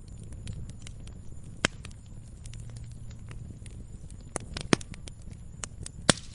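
Campfire crackling: irregular small pops and snaps over a low steady rumble, with three sharper, louder pops, the loudest near the end.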